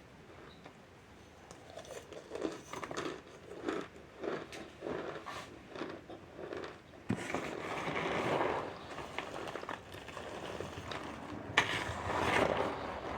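Chunks of cornstarch being chewed: a steady run of short crunches about two a second, then two louder, longer crackling stretches, one in the middle and one near the end, each starting with a sharp click.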